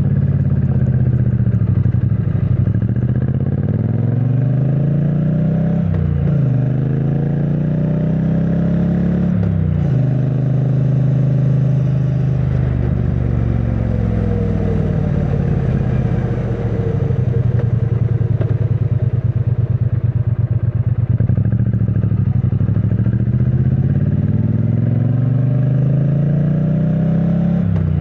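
2022 Triumph Bonneville T100's 900 cc parallel-twin engine, stock exhaust, pulling through the gears. The engine note rises and drops sharply at each upshift, about six and nine and a half seconds in, then runs steadier and eases off before building again to another shift near the end.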